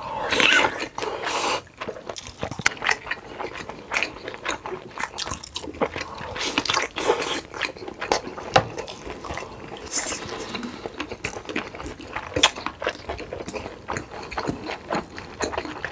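Close-miked eating sounds: biting into and chewing large sauce-covered sausages, with wet smacking and irregular squelching clicks, loudest about half a second in.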